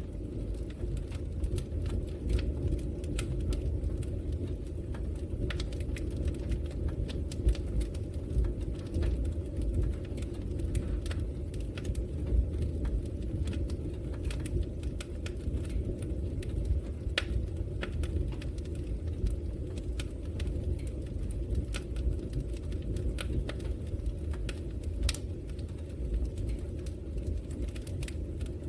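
Logs burning in a fireplace: a steady low rumble of the fire with frequent sharp crackles and pops at irregular intervals.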